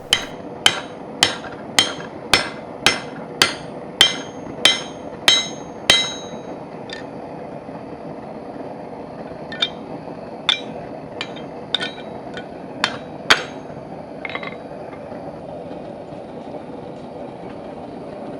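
Hand hammer striking a punch used as a drift to open up a punched hole in a hot steel bar on the anvil. About a dozen evenly spaced ringing blows, roughly two a second, then a pause and a handful of scattered blows, over a steady background noise.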